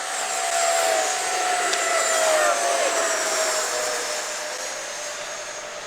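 Radio-controlled electric ducted-fan jet flying past: a high fan whine that grows louder, drops in pitch as it goes by about halfway through, then fades.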